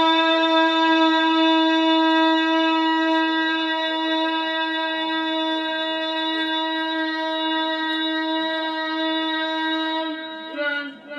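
A Qur'an reciter's voice holding one long, steady note on a single pitch in melodic tilawah, then breaking into short sung syllables near the end.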